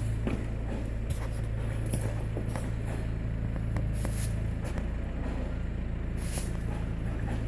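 An engine idling steadily with a low, even hum, with a few light clicks over it.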